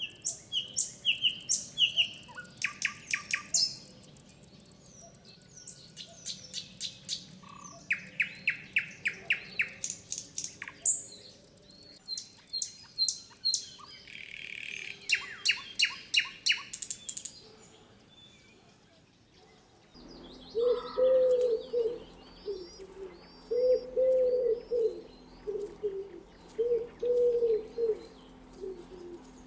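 Thrush nightingale singing loud, varied phrases of rapid clicks, rattles and piping whistles, separated by short pauses. About two-thirds of the way through, after a brief lull, the song gives way to a common wood pigeon cooing three soft, low phrases, with another small bird chirping high and thin above.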